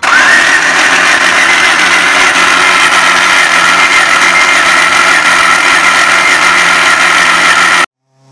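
Car engine running steadily and loudly, with a high whine that rises in the first half-second and then holds; the sound cuts off abruptly near the end.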